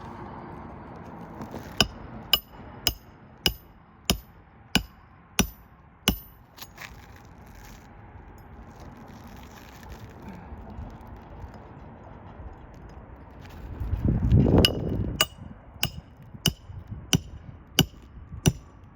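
Hammer blows driving nails, each blow with a sharp metallic clink. There is one run of about eight blows, a little under two a second, in the first few seconds. A second run of about seven follows near the end, just after a brief rush of rumbling noise.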